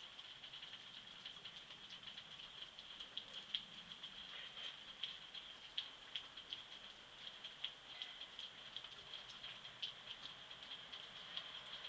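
Snowstorm precipitation pattering on surfaces: irregular light ticks, several a second, over a steady faint hiss.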